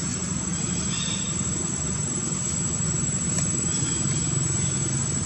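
Steady low rumble, like distant traffic, with a constant thin high-pitched whine above it and a few faint short chirps.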